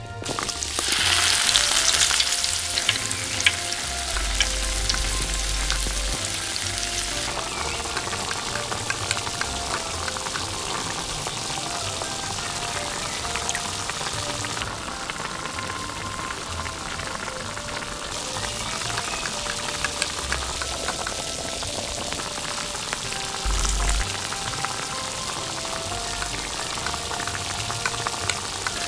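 Sauce hitting hot oil in a miniature iron kadai: a loud sizzle bursts out about a second in, then settles into steady frying. A small spoon stirs and taps against the pan, making light clicks over the sizzle.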